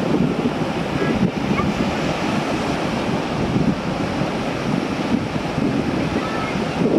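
Sea waves washing steadily, with wind buffeting the microphone in an irregular low flutter.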